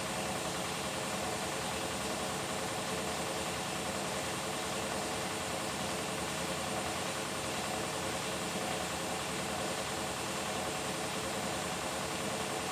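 Beko WTK104121W washing machine running steadily during its Delicates cycle: an even motor hum and whine over a hiss of noise, with no change or break.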